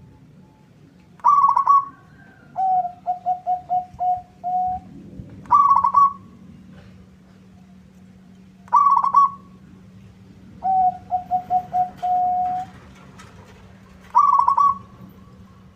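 Zebra dove (perkutut) cooing song: short loud higher notes alternating with rolling runs of lower, quick coos. Twice a run of five or six fast coos ends in a longer held coo. A faint steady low hum lies underneath.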